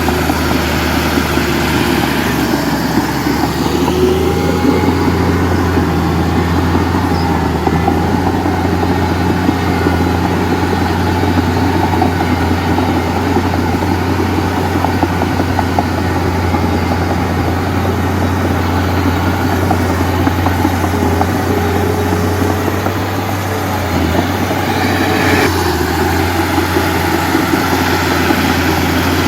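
Heavy diesel engine of earthmoving or truck machinery running steadily at working speed, with small rises and falls in pitch and a brief change in tone near the end.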